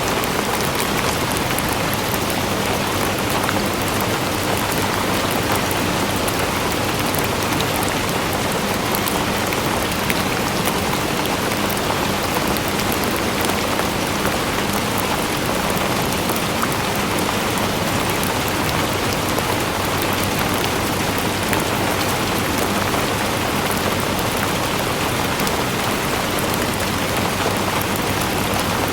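Steady rain falling on a surface, with many small drops ticking through an even hiss.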